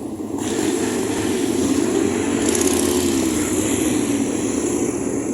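Motorcycle engines running in a steady drone, with a brief rise and fall in pitch about two to three seconds in.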